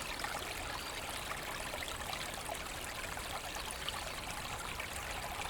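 Forest brook flowing and trickling over stones, a steady, even splashing.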